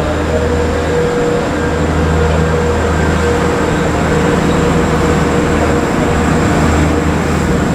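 Diesel train engine running steadily: a low hum with a held whine above it.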